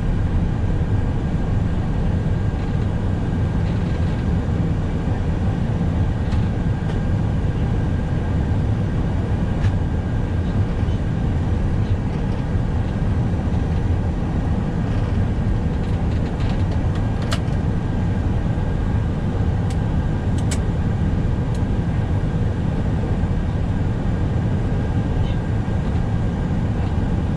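Steady low rumble of an Airbus A321 rolling along the runway after touchdown, heard inside the cockpit, with a few faint clicks.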